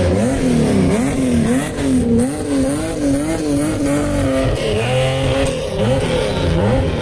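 Exhaust of a modified classic Japanese car, its engine revved up and down over and over in a quick rhythmic throttle-blipping pattern, about twice a second at its quickest.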